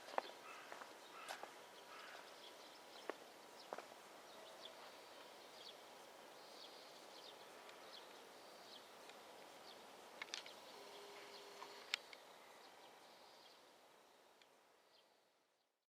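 Near silence: faint outdoor early-morning ambience with scattered small bird chirps and a few sharp ticks, fading out near the end.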